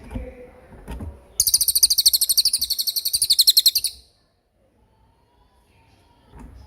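A small songbird's loud, fast trill of high, sharp repeated notes, about a dozen a second, lasting about two and a half seconds and stopping abruptly.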